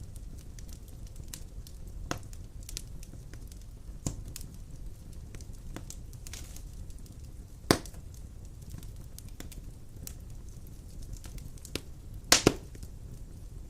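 Wood fire burning in a fireplace: a low steady rumble with scattered crackles and a few sharp pops, the loudest near the middle and a double pop near the end.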